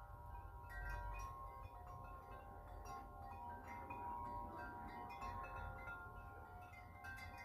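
Wind chime ringing continuously as gusts knock its tubes, several ringing tones overlapping, over a low rumble of wind.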